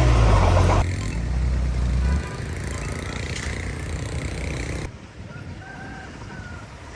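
Heavy diesel earthmoving machinery running loud, then dropping suddenly about a second in to a lower rumble that ends about two seconds in. After that comes quieter background noise with a few faint short chirps near the end.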